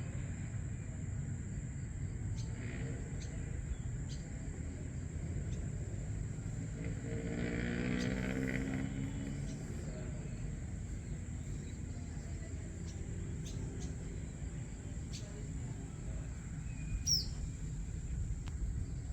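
Early-morning outdoor ambience: a steady low rumble with a steady high insect-like whine. A distant vehicle swells and fades past midway through, and a single short, falling bird chirp comes near the end.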